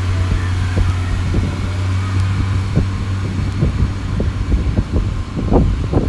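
Diesel multiple unit (a Class 150 and a Class 143 coupled) pulling out, a steady low engine drone, with wind buffeting the microphone in gusts that grow stronger and more frequent in the second half.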